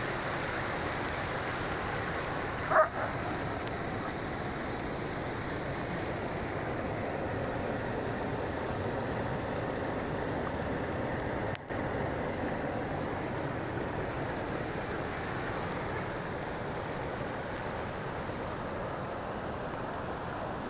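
Steady rush of falling water from a waterfall. A brief sharp sound stands out about three seconds in, and the sound drops out for an instant near the middle.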